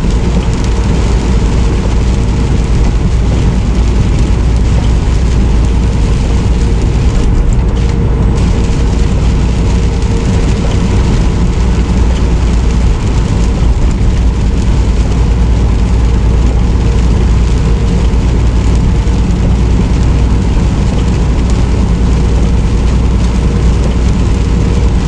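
Semi truck driving in the rain: a steady, loud engine drone and road noise with a constant hum, and rain in the background.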